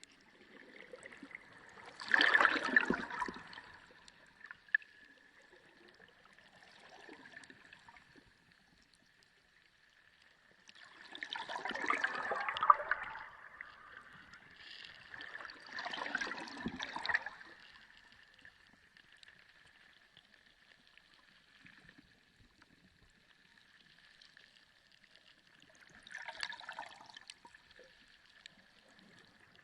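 Sea water gurgling and bubbling, heard underwater, in four separate surges with quieter lulls between; the loudest come about two and twelve seconds in. A faint steady high tone runs underneath.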